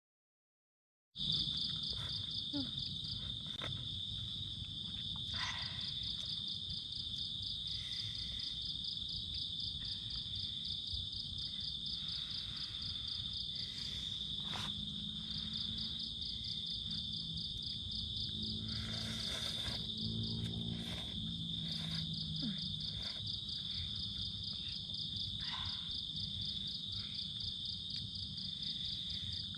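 Steady chorus of forest insects, a continuous high trill with a fast-pulsing upper band. It starts abruptly after about a second of silence, with scattered faint clicks underneath.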